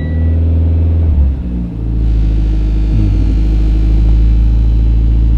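Mitsubishi Lancer Evo X's turbocharged four-cylinder engine idling just after a cold start, a steady low running note whose pitch shifts about a second and a half in. A steady electronic beep stops at the very start.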